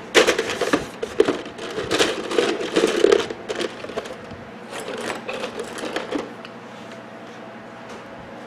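Scrap copper pieces clinking and rattling as they are handled and dropped together, a quick run of small clicks that dies away after about six seconds.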